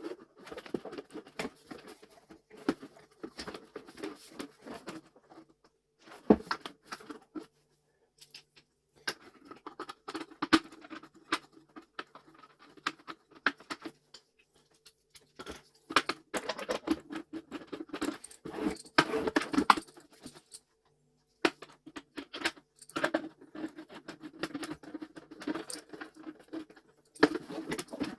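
Hands working on vacuum cleaner parts during reassembly: plastic parts and fittings clicking, rattling and scraping in bursts, with short pauses between.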